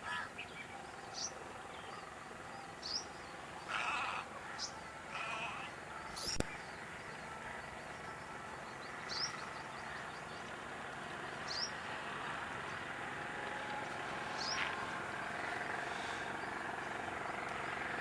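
A bird's short, high, downward chirps, repeated every few seconds over steady outdoor background hiss, with two short harsh sounds around four and five seconds in and a single sharp click about six seconds in.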